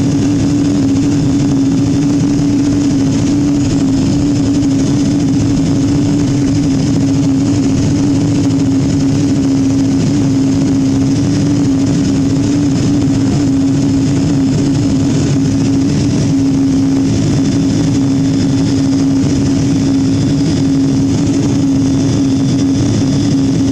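Steady cabin noise of a Boeing 777-200 taxiing after landing: the engines' hum, carrying one strong, constant low drone.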